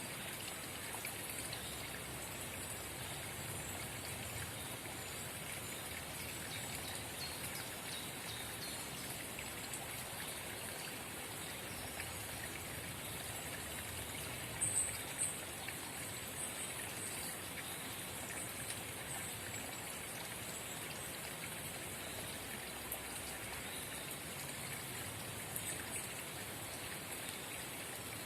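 Forest spring babbling steadily, an even trickle of running water. A couple of short, sharp high sounds stand out about halfway through.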